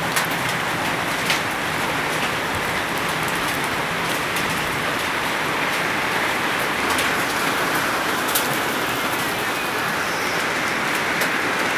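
Hail and rain falling steadily: a dense, even hiss with occasional sharp ticks of hailstones striking.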